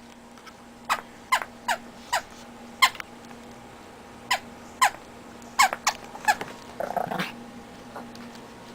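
Squeaky rubber frog chew toy squeaking as a chihuahua puppy chews and attacks it: about a dozen short squeaks, each falling in pitch, at irregular intervals, with a brief rustling scuffle about seven seconds in.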